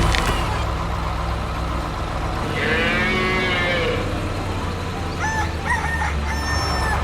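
Farm-animation sound effects: a tractor engine hums steadily under a cow mooing once about three seconds in, followed by a few short clucking calls near the end.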